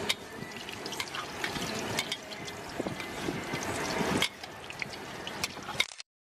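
Thai pork omelet frying in hot oil in a steel wok: a steady sizzle with many sharp crackles and pops. The sound cuts off abruptly shortly before the end.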